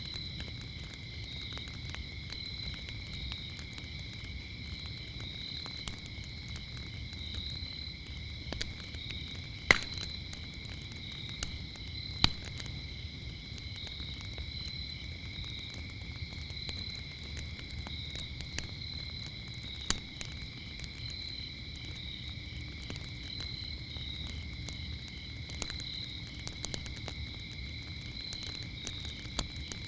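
Crickets chirping steadily over a crackling wood fire, with a low rumble from the flames and scattered sharp pops and snaps, the loudest about ten, twelve and twenty seconds in.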